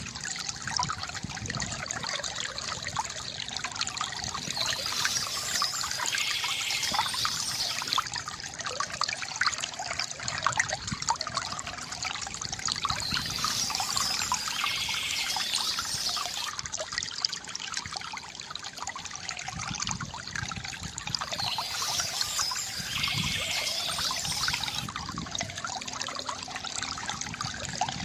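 Water trickling and splashing steadily from a bamboo fountain, with a brighter, hissier stretch returning about every eight seconds.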